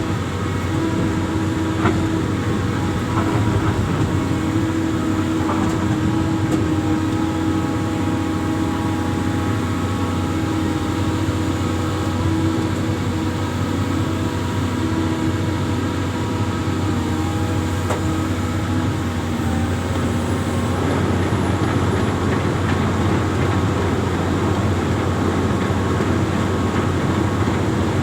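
Amphibious excavator's diesel engine running steadily at a constant pitch, with a few faint knocks from the machine.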